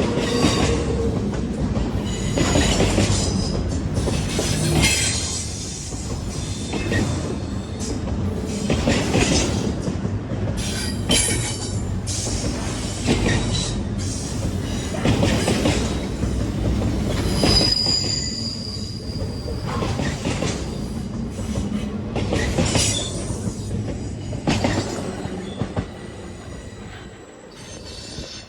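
A train rolling past: wheels knocking over rail joints in an uneven series of clanks, with high wheel squeal now and then. It fades near the end.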